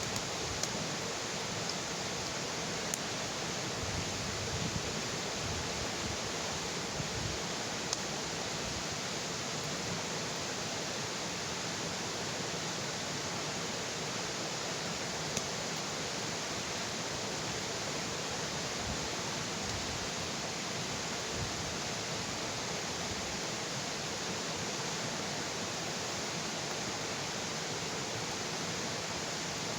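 Bonfire burning with a steady rushing hiss, broken by a few sharp pops from the burning wood.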